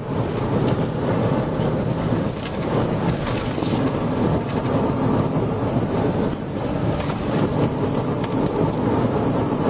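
Steady loud wind and road noise with engine drone inside a police patrol car driving flat out at about 110 mph during a pursuit.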